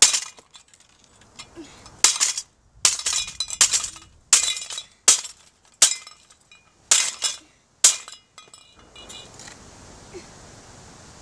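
A cheap ceiling fan being smashed: about ten sharp, clinking, cracking blows in quick succession as pieces break off it. The blows stop about nine seconds in.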